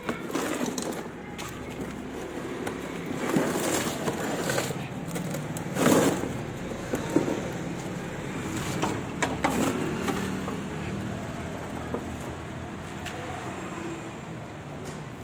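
A vehicle engine or traffic humming steadily, with irregular knocks and metal clatter of work scattered through, the loudest about six seconds in.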